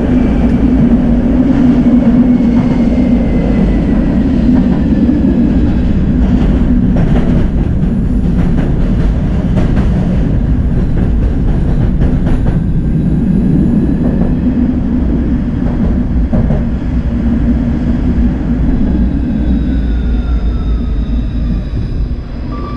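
Tram running along the track: a steady low rumble of wheels on rail with scattered clicks. A faint whine slides down in pitch early on and again over the last several seconds.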